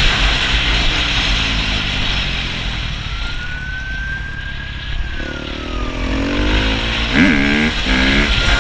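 Dirt bike engine running at speed under heavy wind and road noise, while a police siren wails once through the middle, rising and then falling away. Near the end the pitch of the engine note rises and falls quickly, again and again.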